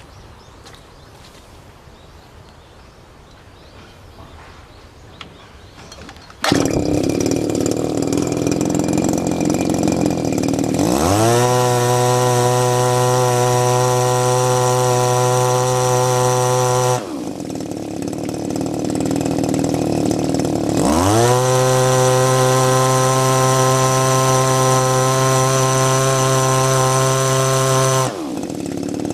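Small engine of a Robin EE-25 engine pump comes in abruptly after a few quiet seconds, running at a low idle. It is then revved up to a steady high speed, dropped back to idle, and revved up and dropped back once more.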